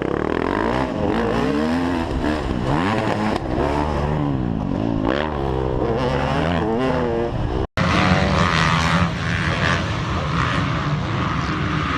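Motocross bike engines revving, their pitch rising and falling again and again as the throttle is worked. About two-thirds of the way through, the sound cuts off abruptly and switches to a steadier, noisier engine sound.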